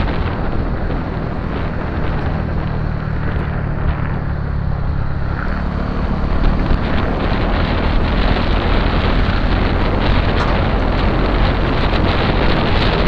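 Motorcycle engine running steadily on the move, under heavy wind noise on the microphone. About five and a half seconds in, the engine note shifts and the sound grows a little louder.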